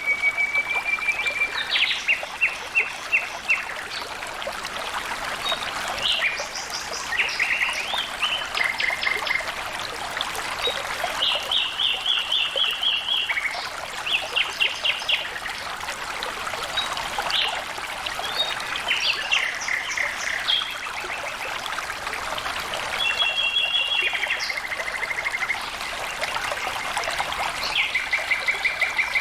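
Water flowing steadily, like a small stream, with songbirds singing throughout in short phrases of quick repeated notes and brief held whistles.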